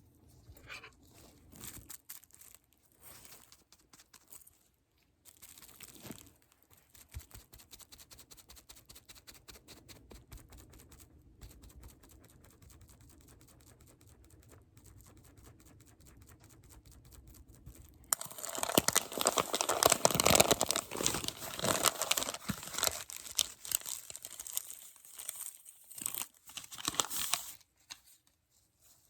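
Close-up ASMR handling sounds: faint rustles and taps for most of the stretch, then, about eighteen seconds in, loud crinkling and tearing for about nine seconds before it stops.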